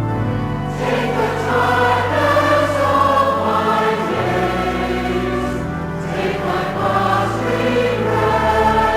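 A choir singing a hymn, the voices coming in about a second in over a sustained instrumental accompaniment.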